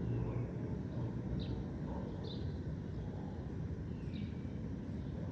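Steady low rumble of distant city traffic with short, high bird chirps every second or so, a few of them sliding downward.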